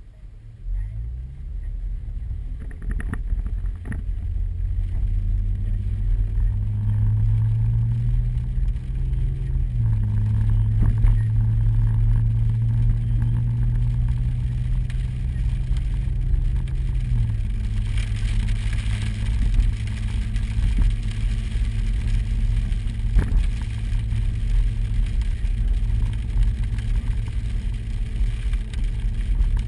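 Vehicle engine heard from inside the cab, building in pitch as it picks up speed, dropping as it shifts about a third of the way through and again past the middle, then running steadily. A few sharp knocks sound on the body now and then.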